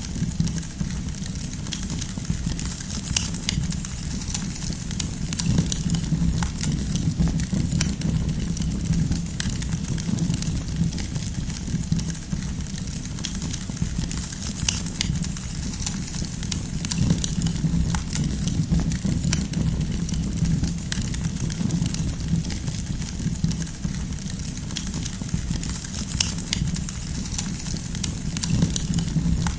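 Campfire burning with frequent small crackles and pops of firewood over a steady low rumble of the flames.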